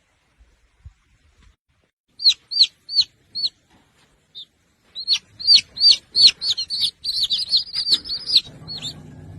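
A small bird chirping in short, arched, high notes. There are a few separate chirps about two seconds in, then from about five seconds a fast, quickening run of chirps.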